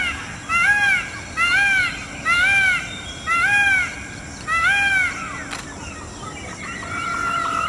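An animal calling over and over: about six short calls, each rising and then falling in pitch, roughly one a second, with a sharp click partway through.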